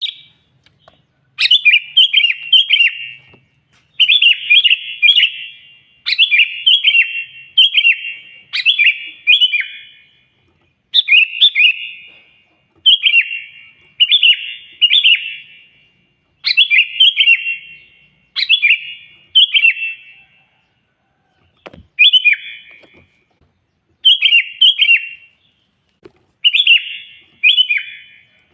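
Sooty-headed bulbul (kutilang) singing loudly. It gives short phrases of quick chirping notes, each about a second long, repeated every second or two with brief pauses.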